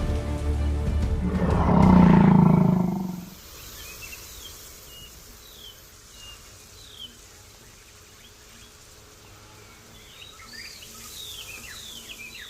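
Music fades out, then a large wild animal gives one loud roar about two seconds in, lasting about a second. Quiet outdoor ambience follows, with birds chirping in short falling notes.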